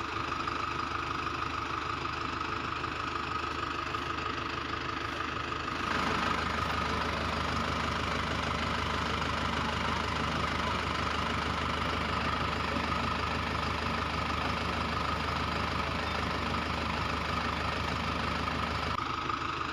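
Engine running steadily with a constant hum, getting a little louder about six seconds in.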